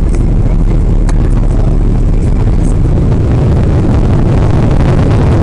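Boeing 777-300ER heard from inside the passenger cabin on the ground after landing: a loud, steady low rumble with a rushing noise that swells over the last couple of seconds.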